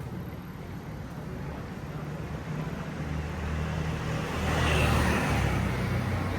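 A road vehicle passing close by on a city street: a low engine hum and tyre hiss build up to a peak about five seconds in, then ease off.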